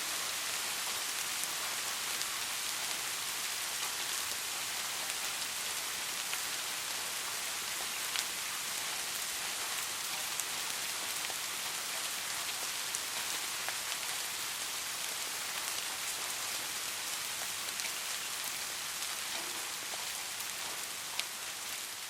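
Steady rain falling on a surface, an even hiss with scattered single drops ticking through it.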